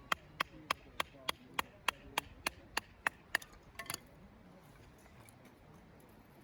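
Wood being struck in a run of sharp, evenly spaced knocks, about three a second, with a short rattle of knocks just before the four-second mark. This is the sound of splitting kindling for a campfire, as in batoning a knife through a stick.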